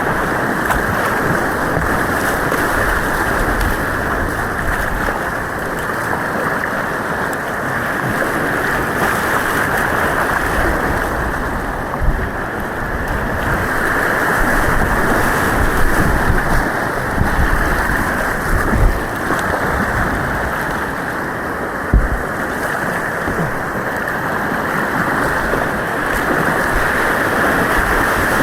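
Steady rush of white water on an artificial slalom course, heard from a kayak, with a few dull low thumps along the way.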